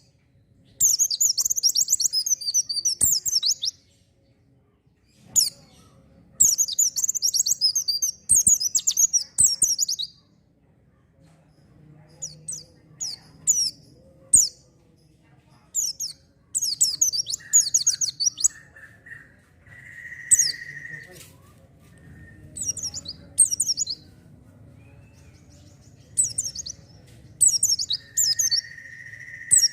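Pleci (white-eye) singing in fast, high-pitched twittering phrases of one to four seconds each, separated by short pauses. This is the lively, continuous song that keepers call gacor.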